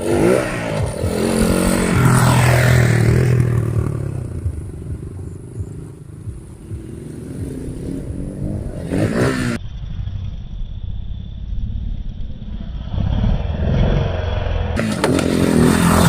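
Motocross dirt bike engines revving and riding past, the engine pitch rising and falling, with abrupt changes in the sound about ten and fifteen seconds in.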